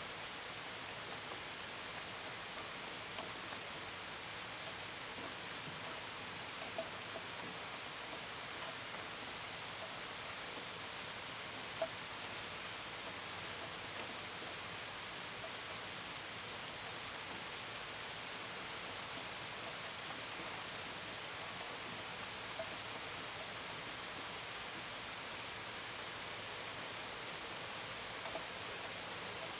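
Steady gentle rain, with crickets chirping in short pulses about once a second. A few individual drops tick out sharper above the rain, the clearest about twelve seconds in.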